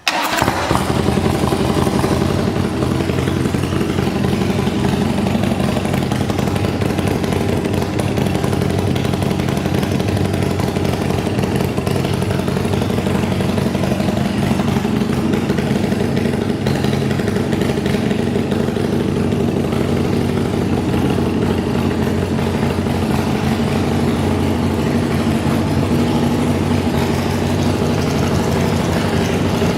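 A custom motorcycle's 120-cubic-inch Ultima V-twin catches right at the start and settles into a steady idle.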